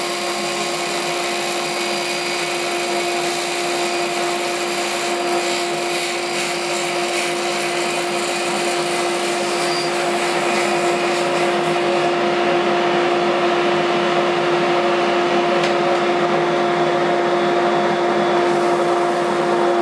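Table saw running steadily with a constant whine; past the middle the sound grows slightly louder and duller.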